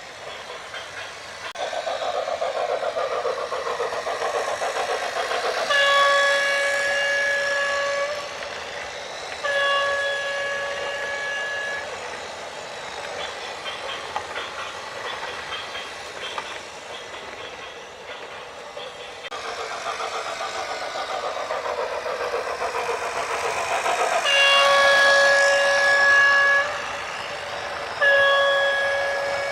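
A loud horn sounding four long blasts of about two seconds each, the first two early on and the last two near the end, over the steady running noise of a moving vehicle.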